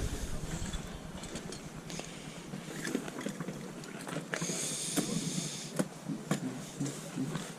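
Open-air car boot sale ambience: a steady background hiss with scattered light clicks and knocks, and a brief brighter hiss a little past the middle.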